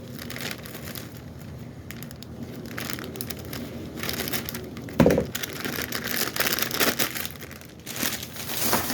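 Fidget-toy packaging crinkling and rustling as it is handled and opened, with one sharp thump about five seconds in.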